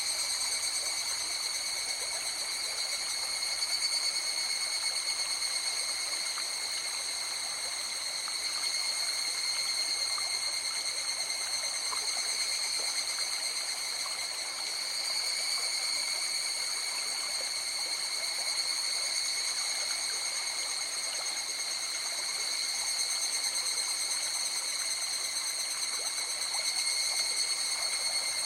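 River water flowing and rushing steadily. A constant high-pitched whine of several steady tones sits over the water.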